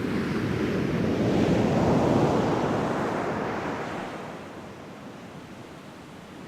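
Ocean waves washing in: a rush of surf that swells to a peak about two seconds in and then dies away.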